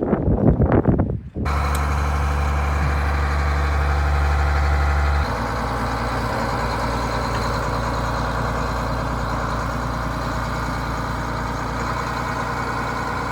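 Wind buffeting the microphone briefly, then a large truck's engine idling steadily with a deep hum. The hum drops lower and quieter about five seconds in.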